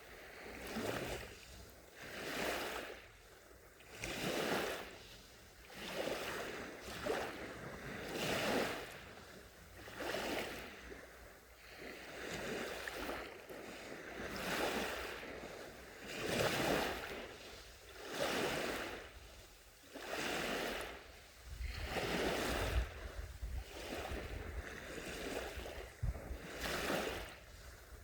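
Small sea waves washing onto a shore, each wash swelling and fading about every two seconds in a steady rhythm.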